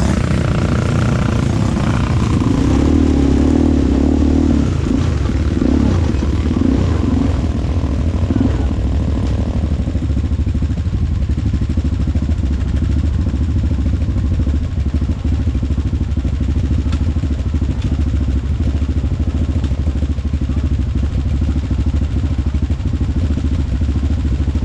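ATV engine running steadily with a low, continuous drone.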